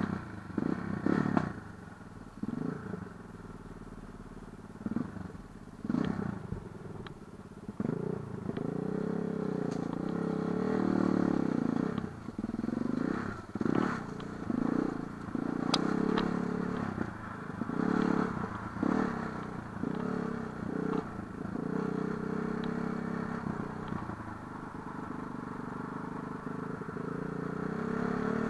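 Light enduro motorcycle riding, its engine rising and falling in pitch as the throttle opens and closes, with scattered sharp knocks and clatter from the bike over rough ground.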